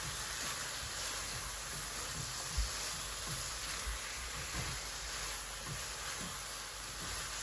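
Okra and ridge gourd sizzling steadily as they fry in a nonstick pan while being stirred with a spatula, with a few soft knocks of the spatula against the pan.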